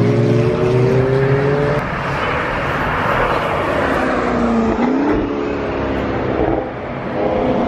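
Sports car engines at full throttle passing by: a rising engine note as a car accelerates, a swell of engine and tyre noise as it goes past, a brief dip and recovery in pitch about five seconds in, and another engine climbing in pitch near the end.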